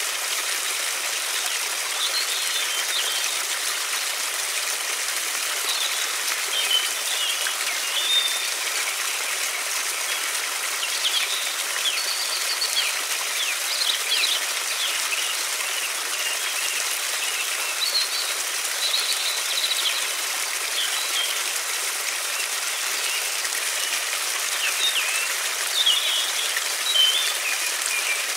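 River water rushing steadily, with songbirds chirping in short phrases every few seconds over it.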